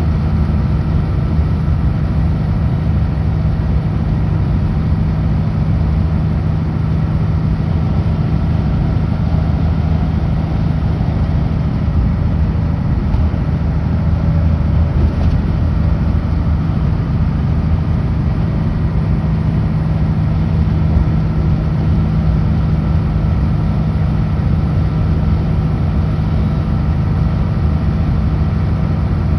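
Kenworth W900L semi truck's diesel engine running steadily at highway cruise, a constant low drone with road noise.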